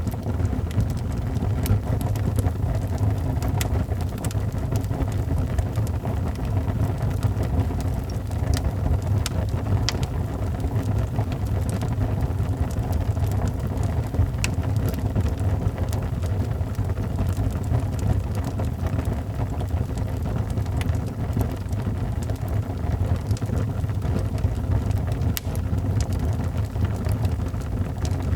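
Wood fire burning in a fireplace: a steady low roar of the flames with scattered sharp crackles and pops.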